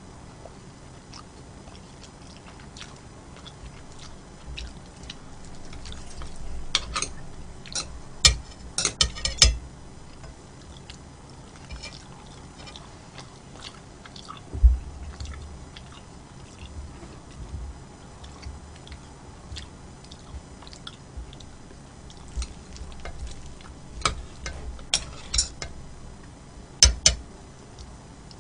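Close-miked eating: a person chewing food, with sharp clicks of utensils or dishes in two clusters, around a quarter of the way in and near the end. There is a single dull thump about halfway through.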